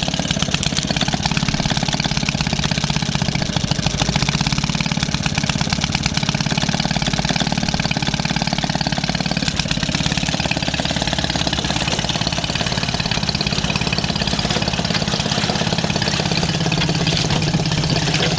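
1946 Maytag Model 72 twin-cylinder two-stroke engine running steadily under load, belt-driving a 1927 Maytag washing machine. The engine runs a little slow, which the owner presumes is below its proper speed.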